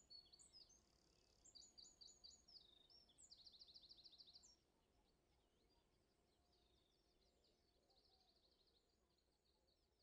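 Faint songbird song: quick runs of high repeated notes for the first few seconds, then fainter scattered chirps.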